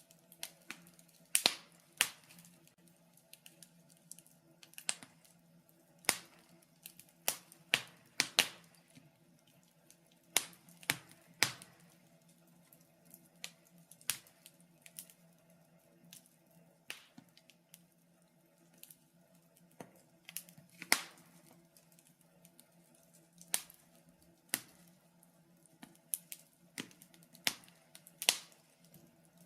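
Wood fire crackling in a fireplace: irregular sharp snaps and pops, roughly one a second, sometimes two or three in quick succession, some much louder than others.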